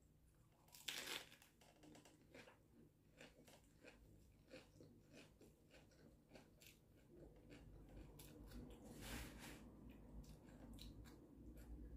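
Faint crunching and chewing of a crisp bánh xèo crepe wrapped in fresh mustard green leaves, with a louder crunchy bite about a second in. Later comes a soft rustle of leaves as another wrap is rolled.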